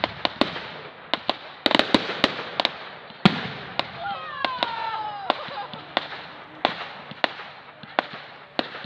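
Fireworks display finale: a rapid, irregular run of sharp bangs and cracks, with a heavier, deeper bang about three seconds in. Falling whistling tones follow a second or two later.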